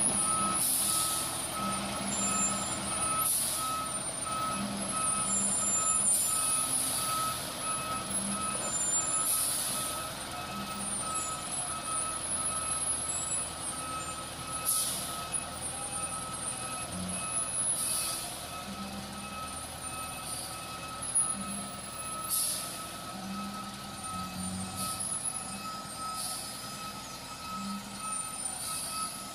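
A heavy truck's reversing alarm beeping steadily, about two to three beeps a second, over the running engine. Short hissing bursts come every few seconds.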